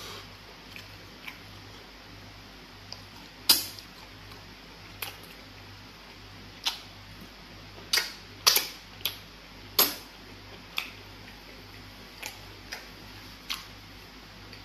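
Close-up mouth sounds of someone eating soft fufu and soup by hand: irregular wet clicks and smacks of chewing and lips, with a cluster of louder smacks a little past the middle. A low steady hum lies underneath.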